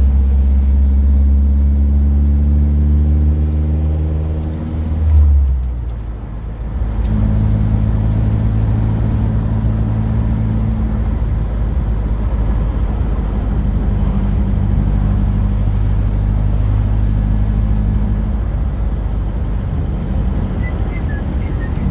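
Car engine heard from inside the cabin on the move. The revs climb steadily for about five seconds, then drop away briefly before the engine settles and runs steadily.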